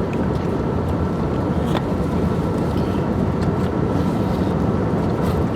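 Steady drone of an airliner cabin during the descent to land: engine and airflow noise heard from a passenger seat, with a faint steady high hum.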